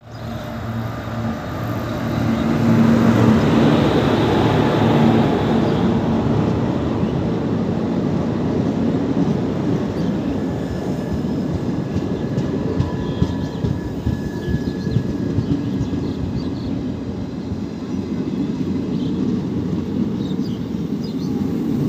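WAP-4 electric locomotive hauling an express train past at speed. It is loudest a few seconds in as the locomotive passes, with a low hum over the rumble, then a steady rolling roar of the passenger coaches' wheels on the rails.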